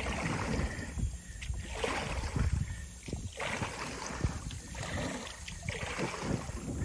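Kayak paddle strokes in shallow creek water: a splashing wash swells and fades about once a second, over a steady low rumble.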